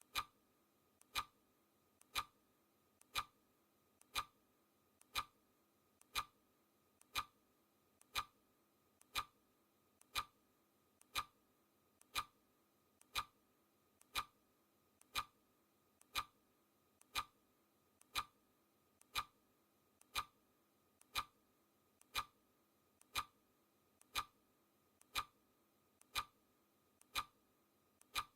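Clock-ticking sound effect: a steady, crisp tick about once a second, each tick with a fainter click just before it.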